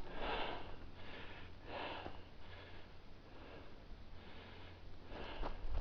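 A hiker breathing hard through a steep climb: a run of audible, noisy breaths, strongest in the first two seconds and again near the end.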